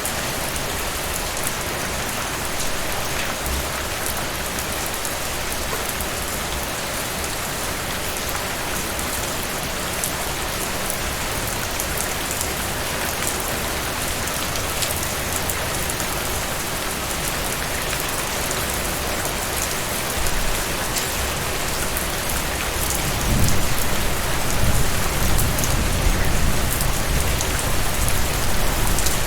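Heavy rain falling steadily in a dense, even hiss. A bit past two-thirds of the way through, a low rumble swells up underneath and carries on.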